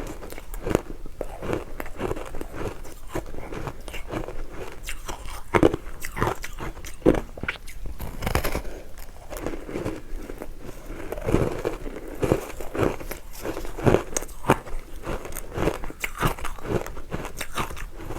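Biting and chewing of powdery frozen matcha ice, close to the microphone: a steady run of sharp crunches, a couple every second.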